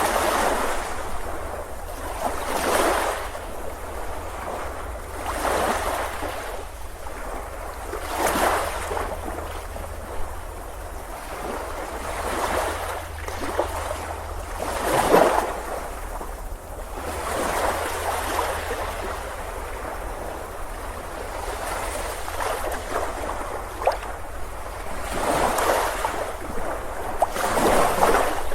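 Ocean waves breaking on a beach, the rush of surf swelling and falling back every two to four seconds over a steady low rumble.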